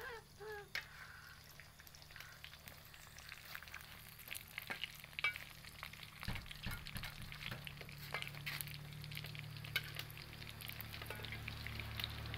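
Nuggets frying in hot oil in an aluminium wok, sizzling with scattered crackles and pops, and a metal spatula now and then clinking and scraping against the pan. The sizzle grows gradually louder.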